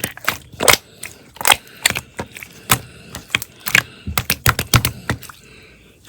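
Slime being squeezed and pressed by hand, giving crisp irregular popping clicks several times a second as air pockets burst. The clicks ease off briefly just before the end.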